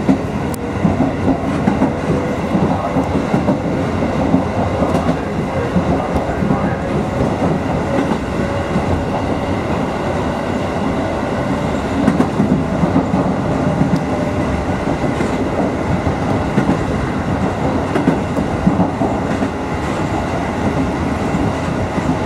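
Electric commuter train of the Takamatsu-Kotohira Electric Railroad running along the track, heard from inside the front of the car: a steady rumble of wheels on rail with clickety-clack over the rail joints and a faint whine that rises slowly in pitch.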